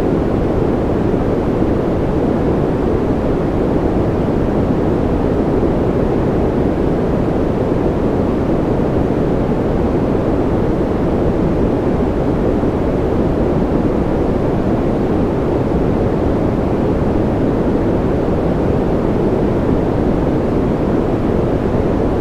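Steady sleep-aid white-noise track, a dense even hush with no changes. Most of its energy sits low, so it sounds deeper and darker than a bright hiss.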